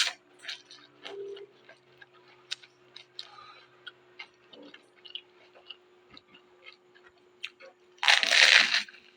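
Close-up chewing of raw vegetables: a run of small irregular crunches and wet clicks. Near the end comes a louder rush of noise lasting under a second.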